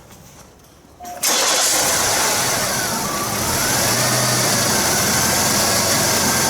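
GM 3800 V6 engine idling steadily. It comes in abruptly about a second in and runs smoothly, with its intermittent misfire not present at this moment.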